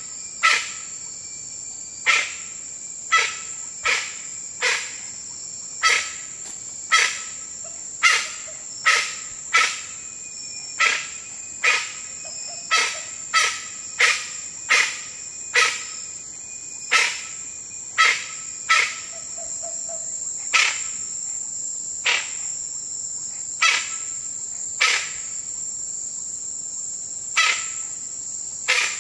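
A jungle bird giving short, sharp calls over and over, roughly one a second at an uneven pace, over a steady high-pitched drone of insects. The calls come less often in the second half.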